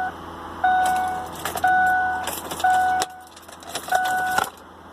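Ford Explorer's dashboard warning chime dinging about once a second, four times, with a few sharp clicks from the key and switches in between. No starter cranking is heard.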